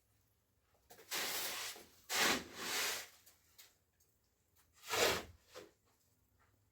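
Rough scraping strokes of a hand tool on a gritty surface, three separate strokes less than a second each, with quiet between them.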